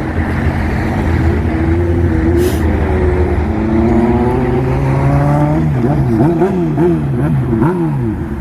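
Honda sport motorcycle engine running, then accelerating with a rising pitch about three seconds in, and revved up and down several times near the end.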